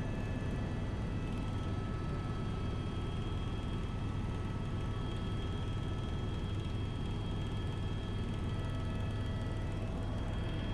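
Helicopter cabin noise: a steady low drone with several constant high whining tones over it, unchanging throughout.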